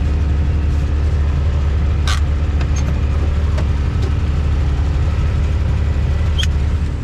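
Off-road vehicle engine idling steadily while stopped, with a few faint clicks.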